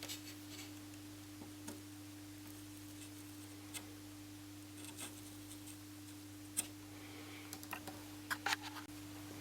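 Faint scattered clicks and small taps of hand tools on a TV circuit board while a capacitor is being desoldered and lifted out, with a quick cluster of clicks near the end, over a steady low electrical hum.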